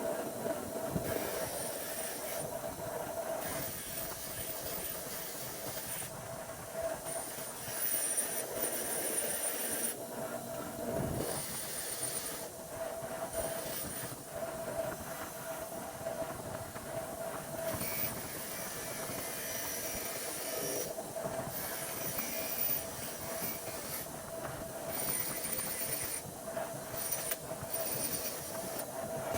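A continuous high-pitched mechanical screech and whine with hiss, holding a steady tone, with frequent sharp clicks.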